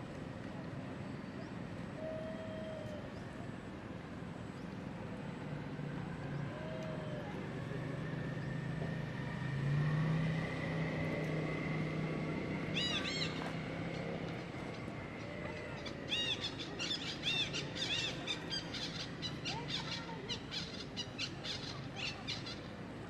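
Outdoor ambience with a passing motor vehicle's engine hum that swells and fades around the middle. In the second half comes a run of short, high-pitched chirping calls.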